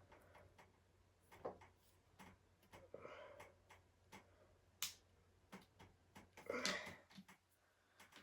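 Faint, scattered clicks and light taps of small wooden kit parts being handled and fitted onto a wooden rod, with one sharper click about five seconds in.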